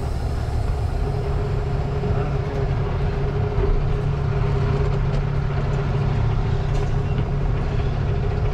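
Tractor-trailer's diesel engine running steadily: a low, even drone with a steady hum.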